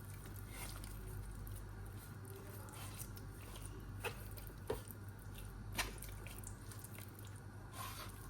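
Quiet room with a steady low hum and a few faint, soft clicks of handling.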